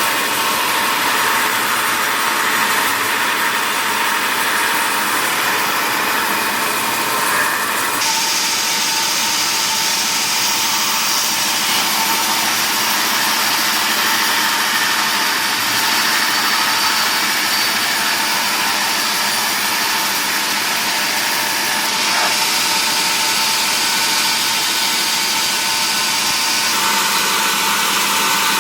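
Wood-processing machinery running steadily, a continuous loud machine noise with its tone shifting about eight seconds in and again near the end.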